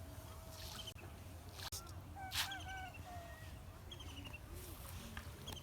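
Several birds calling: quick series of short high chirps repeating throughout, arching whistled calls, and one louder harsh call about two and a half seconds in, over a steady low background rumble.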